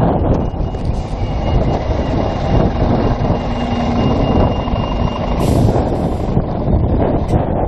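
Wind buffeting the microphone over the running sound of a vehicle. A faint steady tone holds through the middle few seconds.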